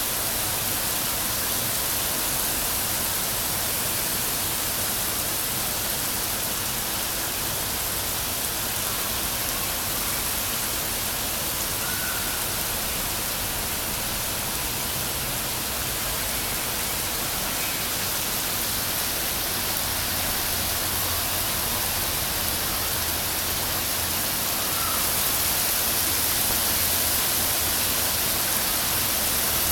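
Heavy rain falling in a steady hiss, growing a little louder near the end.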